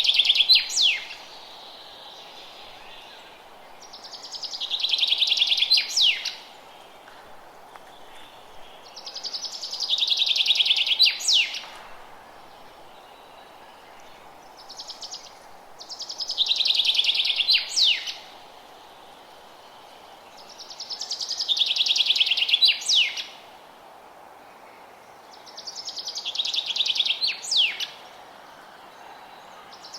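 A songbird singing the same phrase over and over, about every five to six seconds: a rapid buzzy trill that swells in loudness and ends in a few sharp downward notes. A faint steady hiss lies underneath.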